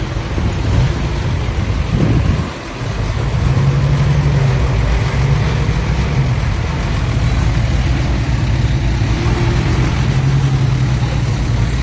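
Heavy diesel engine of earthmoving machinery running steadily, with a deep drone, briefly dropping off about two and a half seconds in before carrying on.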